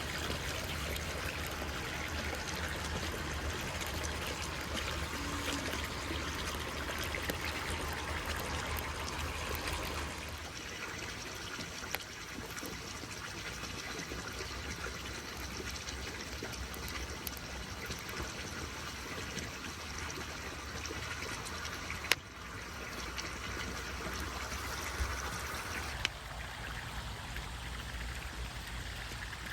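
Water trickling steadily, with a few faint clicks; its sound shifts abruptly about ten seconds in and again near the end.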